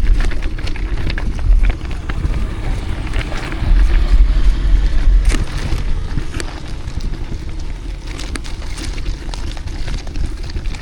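Wind buffeting the microphone of a bicycle ride through city traffic, with a gusting low rumble over steady street and traffic noise and scattered small clicks and rattles.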